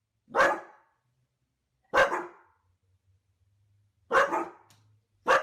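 A dog barking, four single barks spaced one to two seconds apart.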